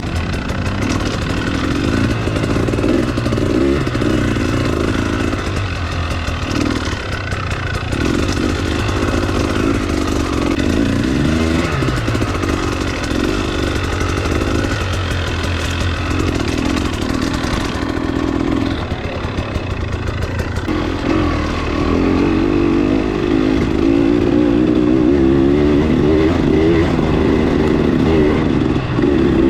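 Off-road motorcycle engine running under changing throttle while riding, its note swelling and easing every few seconds, with some rattling.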